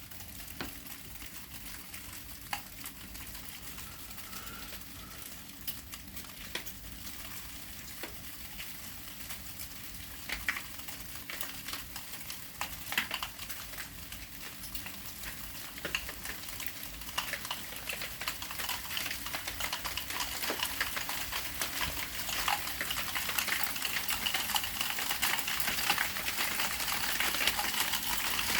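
Sleet falling: a steady hiss dotted with many small ticks of ice pellets striking, growing louder over the last ten seconds or so.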